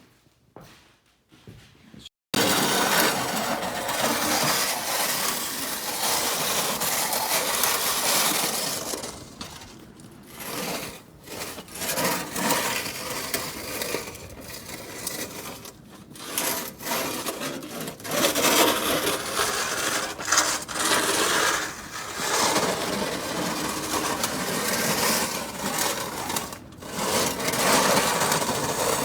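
Harsh, continuous rasping noise of demolition work, starting abruptly about two seconds in and broken by a few short pauses.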